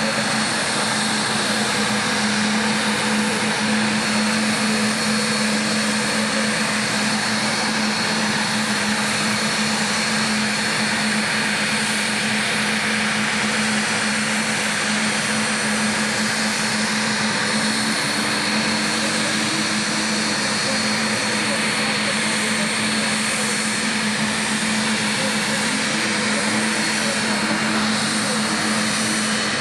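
Saab 105's Turbomeca Aubisque (Volvo RM9) turbofan engines running steadily, a constant rushing noise with a steady high whine, neither spooling up nor down.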